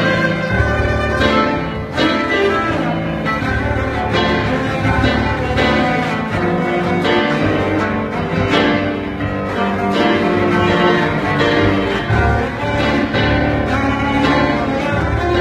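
Cello bowed in a jam with a busker: sustained low notes and a moving melody, played with the busker's accompaniment.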